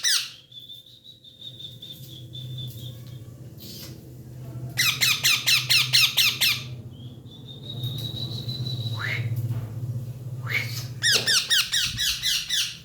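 Pet parrot squawking in rapid trains of harsh calls, about five a second, twice, between long high steady whistles, the second whistle ending in a falling glide.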